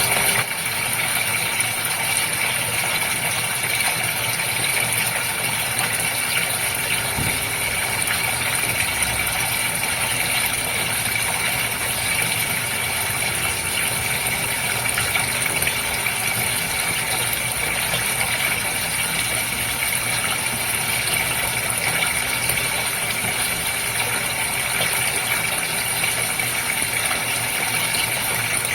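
Water running steadily in a goldfish tank, with the even hum and rattle of its pump.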